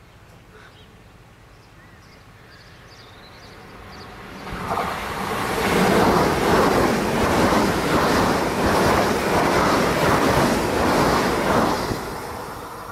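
ICE 3 high-speed electric train passing through the station at speed. Its rushing wheel-and-air noise swells in over the first few seconds and becomes suddenly loud about four and a half seconds in. It holds for about seven seconds with a regular pulsing as the wheelsets go by, then falls away near the end.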